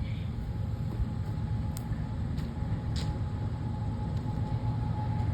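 Approaching train: a low steady rumble that builds slightly toward the end, with a thin steady high tone over it and a few faint clicks.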